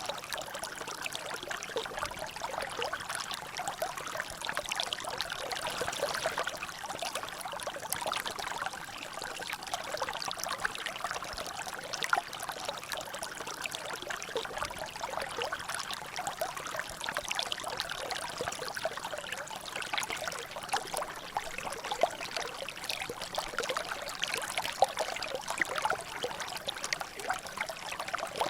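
Water trickling and dripping in a small natural drainage channel, a steady patter of many small drops and splashes.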